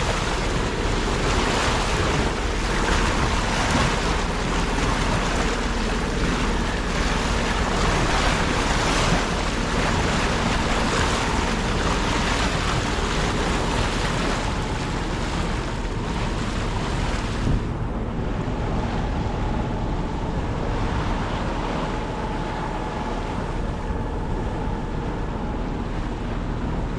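Wind buffeting the microphone over water rushing and splashing past a sailboat under sail, surging in gusts. The high hiss eases abruptly about two-thirds of the way through.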